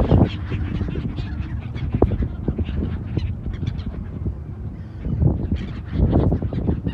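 Birds calling, many short irregular calls over a low rumble, louder about five seconds in and again near the end.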